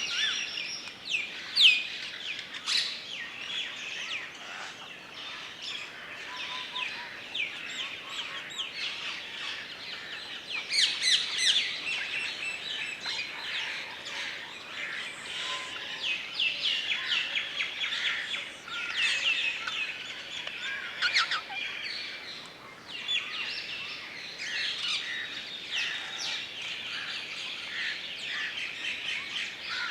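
Woodland ambience of many birds chirping and calling, with overlapping quick, high twittering notes and short sweeping calls, busiest about a third of the way in and again past the middle, over a faint steady hiss.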